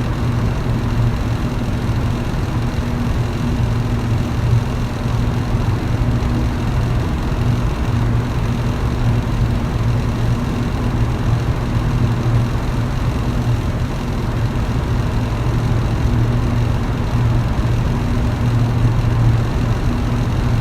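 Electric fan running steadily: a constant low motor hum under an even whoosh of moving air.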